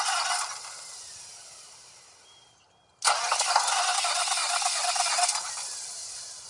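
Detroit Diesel 6V92 two-stroke V6 diesel being cranked on its gear-reduction starter during a cold start without catching. One cranking burst stops about half a second in and dies away, then a second burst of about two seconds starts about three seconds in and fades out the same way.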